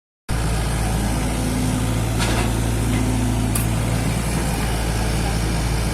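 Mini excavator's diesel engine running steadily, with a higher hum that comes in twice for about a second each and a couple of short clicks.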